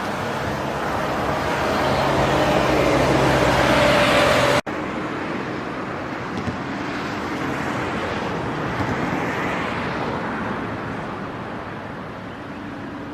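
A vehicle engine running with road and wind noise. Its pitch rises slightly over the first few seconds, then an abrupt cut about four and a half seconds in leads to a duller, steadier stretch of the same kind of traffic noise.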